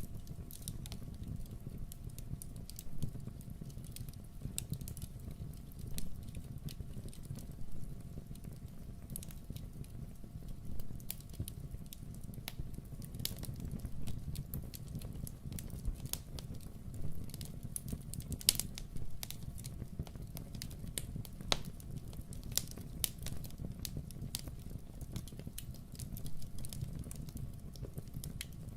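Wood fire crackling in a fireplace: irregular sharp pops and snaps over a steady low rumble, with a few louder pops around the middle.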